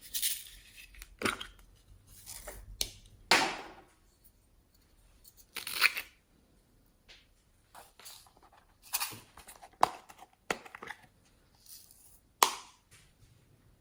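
Glossy slime being squished and stretched by hand, giving irregular sticky squelches and pops with quiet gaps between them.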